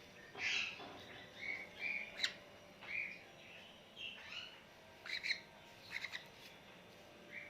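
A parrot calling in a string of short squawks and chirps, about a dozen brief calls with short gaps between them.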